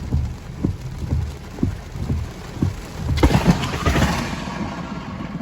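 Wind gusts buffeting the microphone, then about three seconds in a sudden loud crack and crash of thunder from a close lightning strike on a nearby silo, lasting a couple of seconds.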